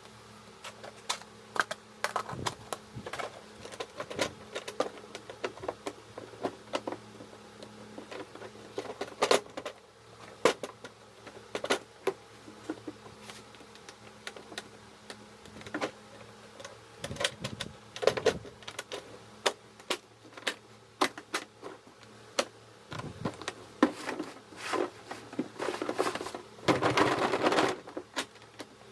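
Irregular clicks and knocks of small hard objects being handled, with a brief dense rattle near the end.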